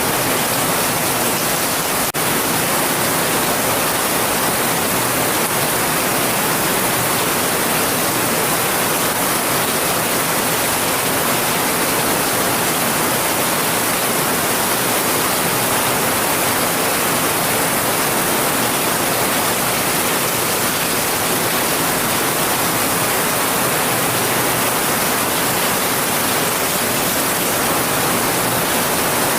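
Heavy rain falling, a steady, even hiss with no thunder and a brief break about two seconds in.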